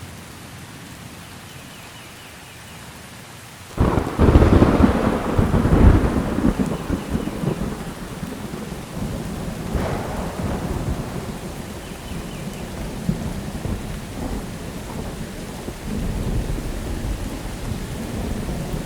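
Thunderstorm: steady rain hissing, then a sharp thunderclap about four seconds in that rolls into long rumbling. The thunder swells again a few seconds later and keeps grumbling over the rain.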